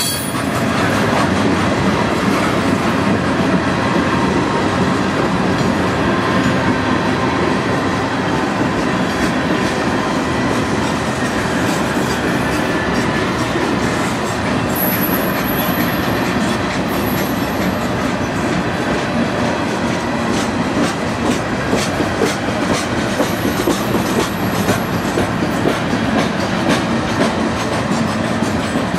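Freight train of tank cars rolling past: a steady rumble of steel wheels on rail with a clickety-clack over the rail joints. A thin high squeal comes in a few times past the middle.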